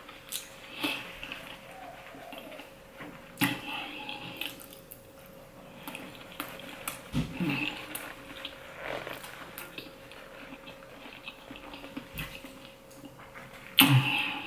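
Close-miked chewing of grilled fish, with soft mouth sounds and scattered light clicks, over a faint steady hum. Near the end comes one short, louder burst.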